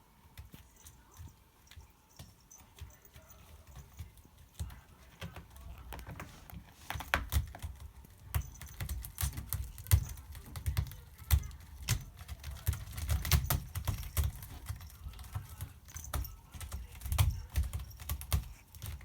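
A cat scratching, its claws raking a scratcher in runs of quick rasping strokes. The strokes are sparse and faint at first and come thick and louder from about seven seconds in.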